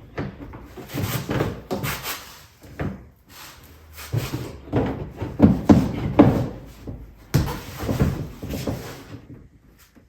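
An ATV seat being pushed and worked onto the machine's frame: irregular plastic clunks, knocks and rattles as it is tried for fit and does not quite seat.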